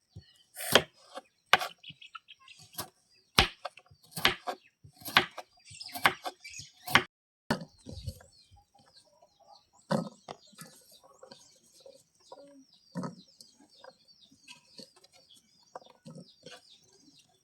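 Knife chopping on a wooden board, roughly one stroke a second, stopping about eight seconds in; after that, a few scattered faint knocks with faint bird calls in the background.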